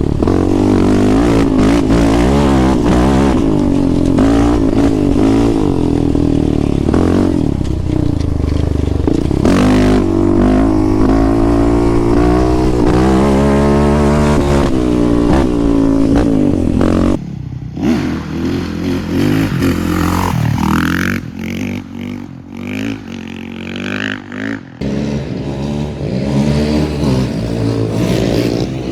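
Off-road vehicle engine ridden hard, its pitch climbing and falling with throttle and gear changes. A little over halfway through it drops off suddenly to a lower, uneven running with short revs.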